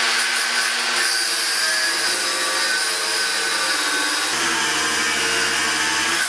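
A power saw cutting through a wooden board: a steady whine over loud hiss that drops lower about four seconds in as the blade takes more load, then cuts off suddenly at the end.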